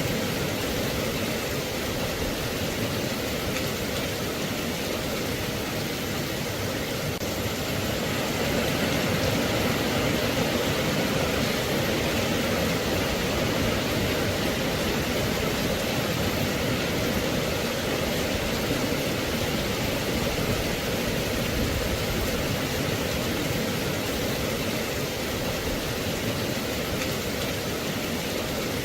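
Steady rain: an even, continuous hiss that grows a little louder about eight seconds in.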